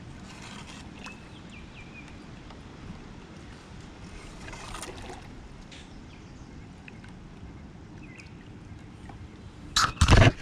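Faint, steady water sounds around an anchored kayak. Then, near the end, a short burst of loud, sudden knocking and splashing noise, enough to scare the fish away.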